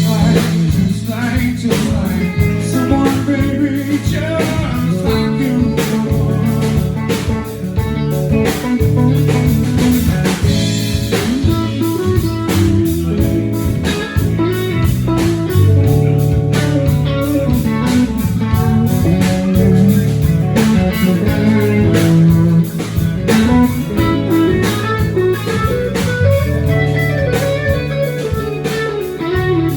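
Live blues-rock band playing an instrumental passage with no singing: guitar over bass and a steady drum-kit beat.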